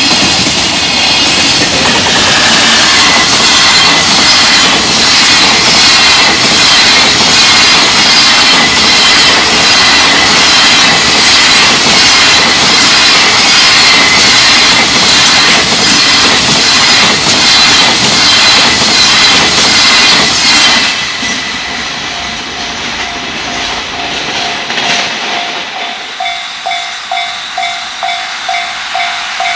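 A long container freight train passing fast over the level crossing: a loud, steady rush of wheels clattering over rail joints, cutting off about 21 seconds in. From about 26 seconds, a level-crossing warning bell dings rapidly and steadily for the next train's approach.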